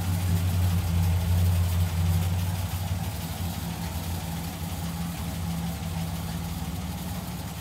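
The 1960 GMC C/K 10 truck's 302 V8 engine idling with a steady low hum, a little quieter from about two and a half seconds in.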